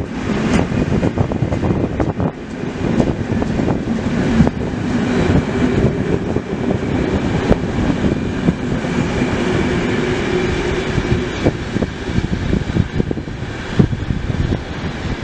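Passenger coaches of a departing train rolling past on the track, with a steady rumble and a run of irregular wheel clicks and knocks over the rail joints.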